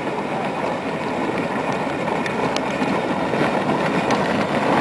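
Child's ride-on toy truck rolling along the street, its plastic wheels giving a steady rumble with a few faint clicks.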